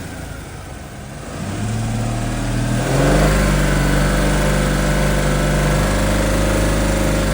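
1995 Ford Mustang's 3.8-litre V6 engine running. It runs low and uneven at first, picks up about a second and a half in, then is revved up about three seconds in and held at a steady, higher speed.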